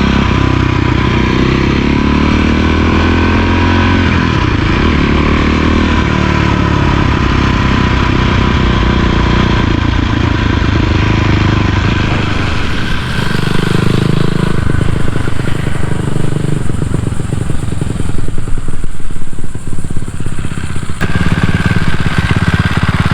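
Cannondale 440 single-cylinder four-stroke dirt bike engine running under way. Its note changes about 13 seconds in and gets louder and rougher between about 18 and 21 seconds.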